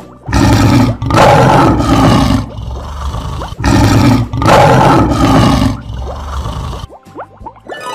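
Lion roar sound effect: two long roars, the second starting about three and a half seconds in, followed by a fainter trailing growl.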